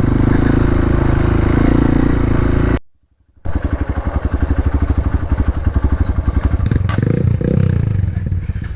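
Hero Xpulse 200 motorcycle's single-cylinder four-stroke engine running steadily. The sound cuts out for about half a second roughly three seconds in. It comes back at lower revs with distinct, evenly spaced firing pulses and a brief rise and fall in pitch near the end.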